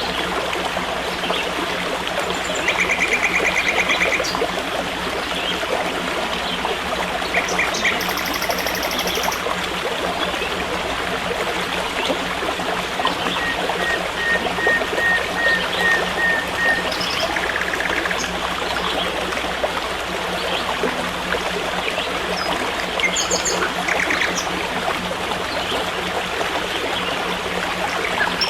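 Forest stream running steadily, with birds calling now and then over it: short trills, and a run of quick repeated notes a little past halfway.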